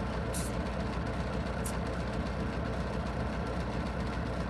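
Semi-truck's diesel engine idling steadily, a low even hum, with two brief high hisses near the start.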